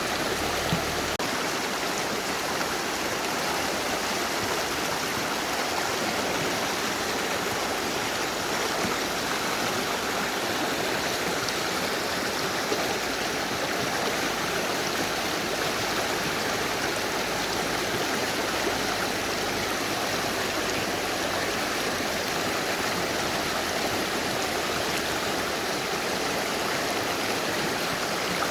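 Mountain river rushing steadily over rocks: an even, unbroken wash of flowing water.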